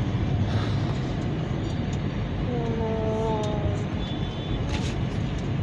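Steady road and engine rumble heard from inside a moving car's cabin, with a short voice-like sound about two and a half seconds in.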